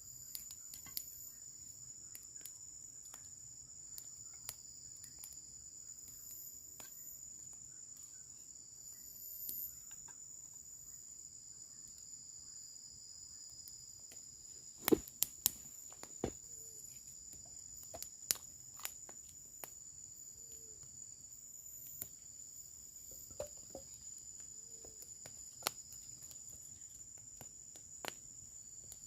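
A steady high-pitched insect chorus shrilling without a break, with scattered sharp clicks and knocks, the loudest cluster about halfway through.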